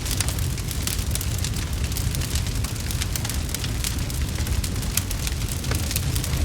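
Wood fire crackling with many quick, sharp pops over a steady low rumble.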